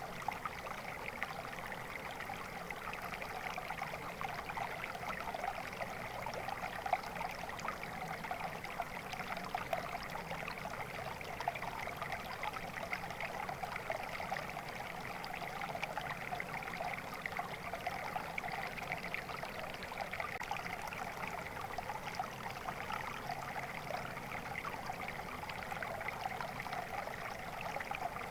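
Stream water flowing and trickling steadily, a continuous babbling with many small splashes.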